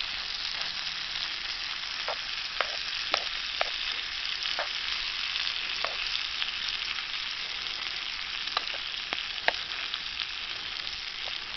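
Food frying over campfire coals: a steady sizzle with scattered sharp pops.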